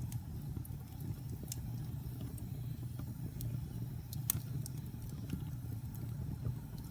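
Wood fire burning in a fireplace: a steady low rumble with scattered sharp crackles and pops, the loudest about four seconds in.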